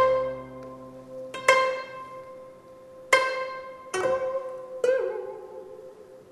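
Steel-string gayageum plucked in a slow, sparse line: five single notes, each ringing bright and fading slowly, the fifth wavering and bending in pitch in the Namdo ornamenting style.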